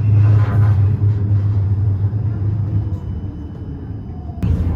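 Tram running on its rails: a steady low rumble and hum. It eases a little about three seconds in, then comes back suddenly and louder near the end.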